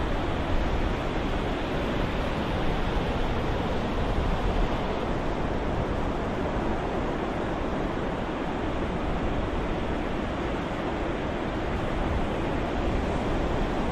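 Ocean waves white noise: a steady, even wash of surf with no distinct wave breaks.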